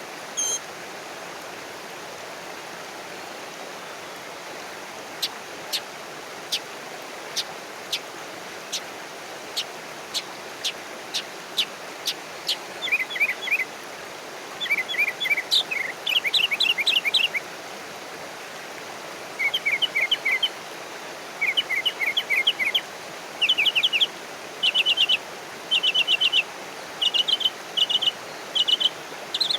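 A small songbird calling: single sharp high chips, one every second or so and coming faster, from about five seconds in, then short quick trills of a few notes repeated every second or so. A steady hiss runs underneath.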